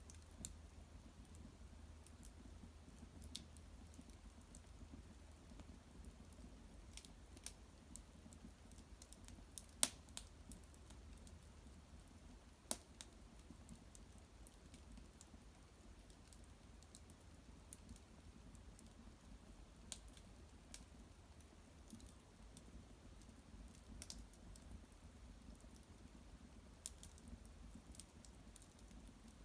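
Small wood fire crackling faintly, with sparse irregular pops and ticks; the sharpest pops come about ten and thirteen seconds in.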